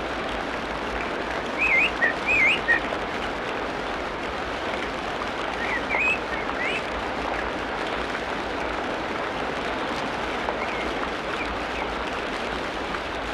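Tropical rainforest ambience: a steady hiss of rain with a bird whistling short wavering notes twice, about two seconds in and about six seconds in, and fainter calls near the end.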